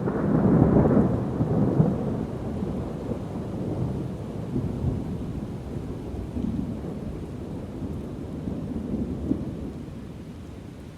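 Rolling thunder over steady rain. It is loudest in the first two seconds, then dies away in weaker low rumbles.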